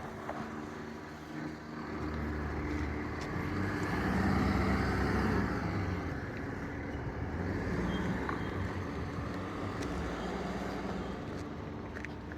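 Car driving, with a steady engine and road rumble heard from inside the cabin that grows louder around the middle.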